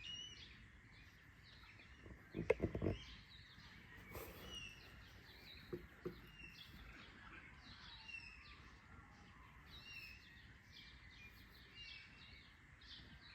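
Dawn chorus of many birds chirping and calling steadily. About two and a half seconds in, a short cluster of close knocks and rattles is the loudest sound, with two softer knocks near the six-second mark.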